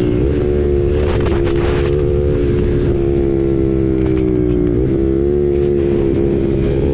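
KTM RC 390's single-cylinder engine through an SC Project aftermarket exhaust, running steadily under way at a fairly even pitch. About five seconds in, the pitch dips briefly and then climbs back.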